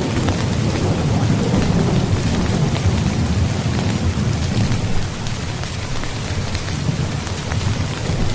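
Steady rain falling on a tent, with faint ticks of single drops, over a low rolling thunder rumble that eases about five seconds in.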